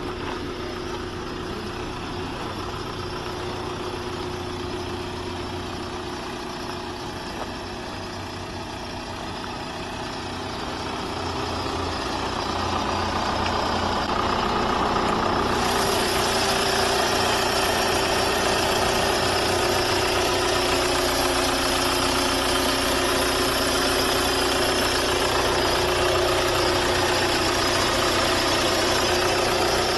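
Audi A6 2.0 TDI's four-cylinder turbodiesel engine idling steadily. It grows louder and brighter about halfway through, with more hiss and clatter in the second half.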